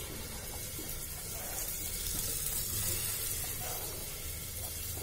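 Litti (sattu-stuffed dough balls) frying in a little hot refined oil in a pressure cooker: a steady sizzle.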